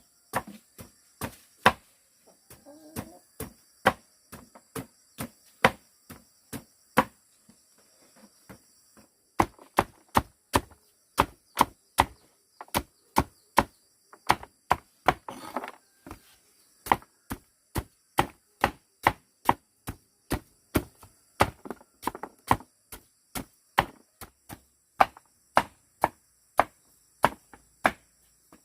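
A knife chopping on a board in steady strokes, slow and uneven for the first several seconds, then about two chops a second. High, steady insect buzzing runs underneath.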